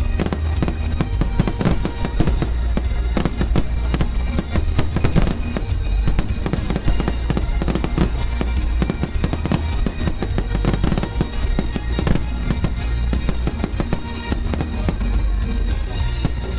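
A fireworks display: a dense string of sharp bangs and crackles over music with a steady beat.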